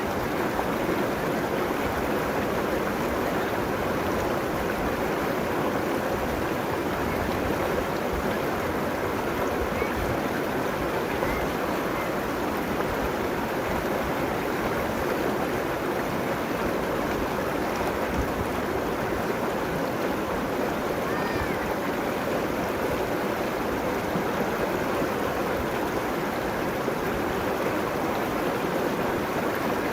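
River water flowing along its banks: a steady, even rushing.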